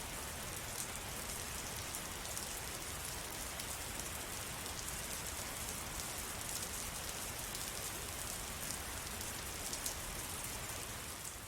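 Steady rain falling, a dense patter of many individual drops over an even hiss, beginning to fade out at the very end.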